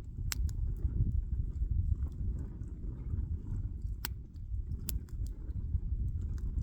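Wood fire crackling, with a few sharp pops over a steady low rumble.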